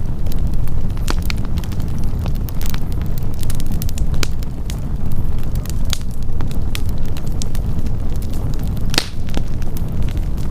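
Wood campfire burning with a steady low rush and frequent sharp crackles and pops; one louder pop comes about nine seconds in.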